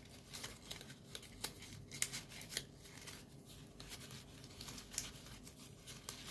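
Folded origami paper units being handled and slotted together, a scattered run of small crisp paper clicks and crinkles.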